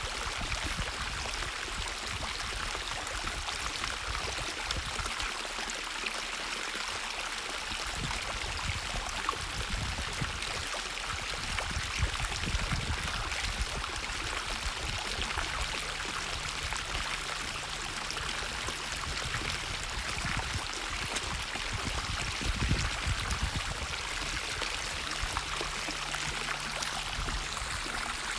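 Natural running water, a steady unbroken rush.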